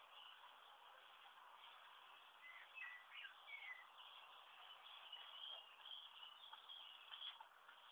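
Faint outdoor background hiss with a few brief, faint bird chirps about two and a half to four seconds in, and more faint chirping near the end.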